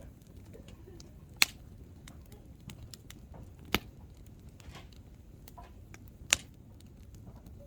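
Hardwood firewood burning in an open campfire, crackling with light ticks over a faint low rumble, broken by three loud sharp pops spaced about two and a half seconds apart as the logs burst.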